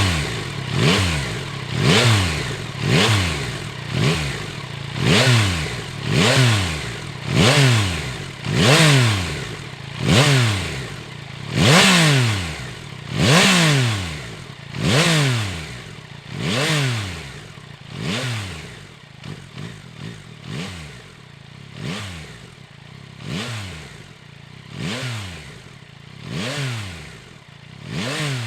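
Yamaha Tracer 9 GT+'s 890 cc inline three-cylinder engine revved in repeated throttle blips, one every one to two seconds. Each rev climbs quickly and falls back. The blips get softer and more spaced out in the second half.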